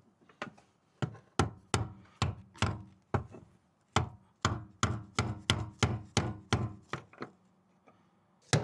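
Repeated hammer blows, about three a second, driving a fuel pump lock ring down against its O-ring seal on a gas tank. There is a short pause before the blows resume near the end.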